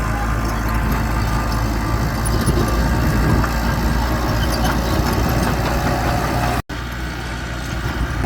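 Mitsubishi bulldozer's diesel engine running steadily at a low, even pitch, broken once by a split-second gap in the sound about two-thirds of the way through.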